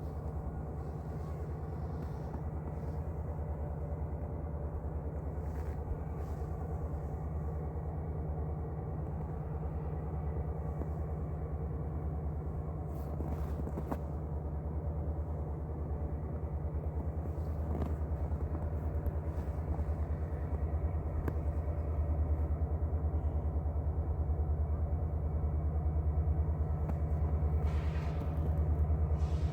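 Steady low engine rumble that grows slightly louder over the span, with a few faint clicks.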